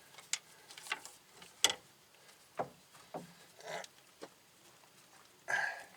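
Scattered light clicks and knocks of parts and tools being handled during hand reassembly of a wheel hub, the sharpest a little under two seconds in, with a short rustling scrape near the end.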